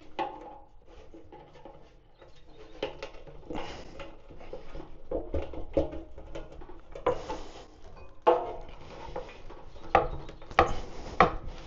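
Irregular clicks, knocks and scrapes of hand tools and metal parts being handled, with a few sharper knocks near the end.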